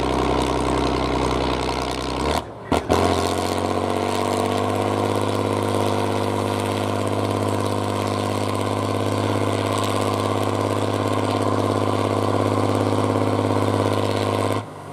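Competition truck's engine running steadily. After a brief break, the revs rise about three seconds in and are held high and even.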